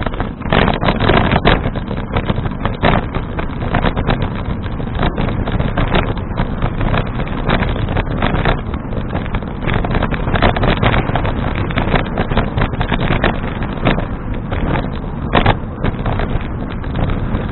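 Wind buffeting an action camera's microphone in a steady rush, with frequent irregular gusty thumps.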